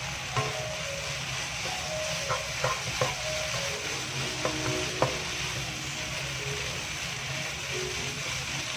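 Chopped okra frying in a nonstick pan with a steady sizzle, while a wooden spatula stirs it and knocks against the pan several times in the first half.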